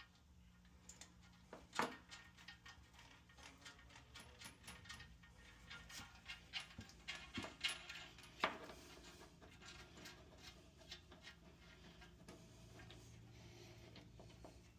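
Faint scattered clicks and light knocks, with two sharper knocks about two seconds in and about eight and a half seconds in, over a low steady hum.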